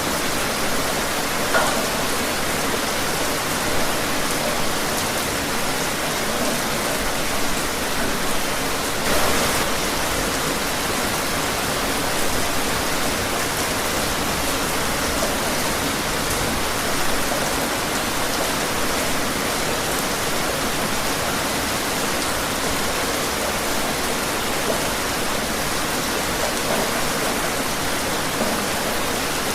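Steady rain falling, a dense even hiss with an occasional louder drop or splash.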